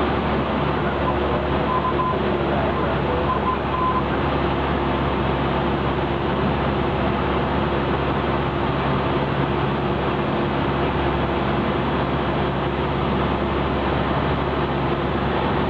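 Cessna 172's piston engine and propeller running at a steady power setting, an even unbroken drone.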